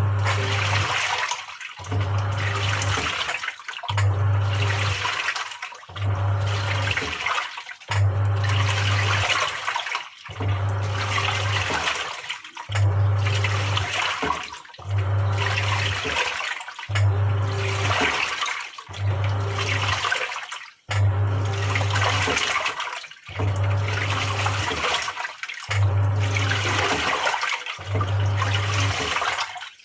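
Samsung 6.5 kg top-loading washing machine in its wash-agitation phase: the motor hums on for about a second, stops, then starts again, about once every two seconds, each stroke churning and sloshing the water in the drum.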